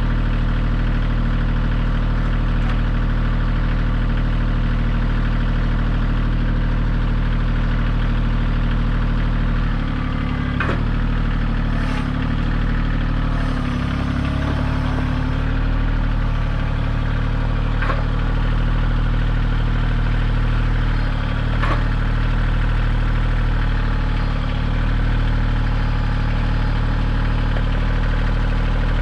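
Kioti 2610 compact tractor's diesel engine running steadily. Its note shifts and drops for a few seconds near the middle, as if under load, and a few sharp clanks sound over it.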